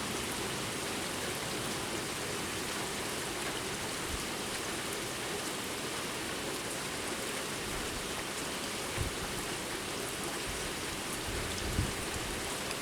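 Steady rain falling during a night thunderstorm, an even hiss of rain on surfaces. A couple of faint low thumps come through about nine and twelve seconds in.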